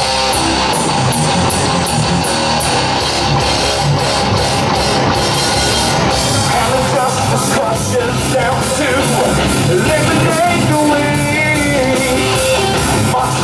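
Live heavy rock band playing loudly: electric guitar over bass and drums, with steady cymbal strokes in the first half and a wavering melodic line in the second half.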